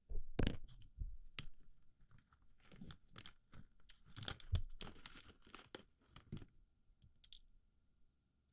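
Plastic BB pellets being packed into and jostled around an ASMR microphone's ear: an irregular run of small clicks and crunchy rattles, busiest in the middle and dying away near the end.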